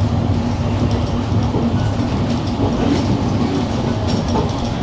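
Moving passenger train heard from on board: a steady, loud rumble of the wheels running on the rails.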